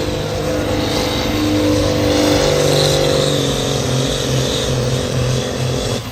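Pulling vehicle's engine running hard at high revs under full load during a pull down the track, its pitch wavering. The level drops off near the end as the pass finishes.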